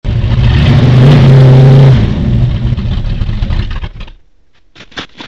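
3/4-ton Chevy pickup truck engine running loud and being revved: the pitch rises and holds for about a second, then falls back, and the sound drops away abruptly about four seconds in.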